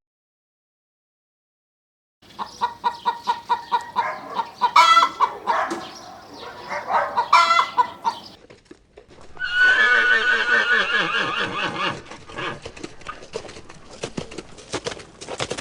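Chickens clucking in a run of short calls, then a horse whinnying with a long wavering call, followed by rapid clicking like hooves. The first two seconds are silent.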